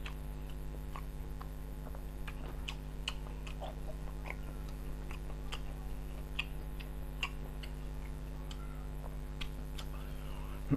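Close-miked chewing of rice and banana-blossom curry: scattered small wet clicks and smacks from the mouth, over a steady low electrical hum.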